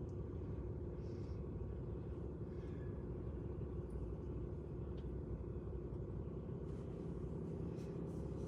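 Vehicle engine idling steadily while stopped, a low even rumble heard from inside the cab.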